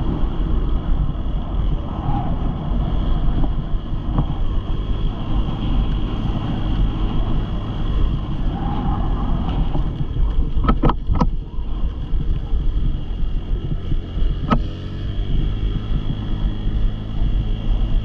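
Dirt bike engine running steadily, with wind buffeting the microphone. A few sharp knocks come a little past the middle, and one more follows a few seconds later.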